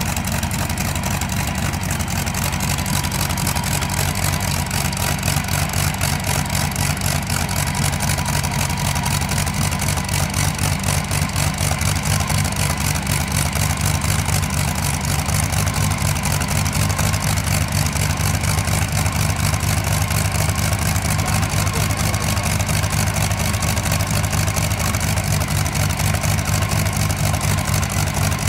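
Tractor-pulling tractor's engine running steadily at idle after a cold start, with a deep, even, rapid pulse and no revving.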